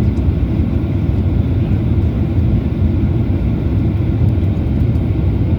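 Steady low drone of a Boeing airliner's cabin in flight: engine and airflow noise, even throughout.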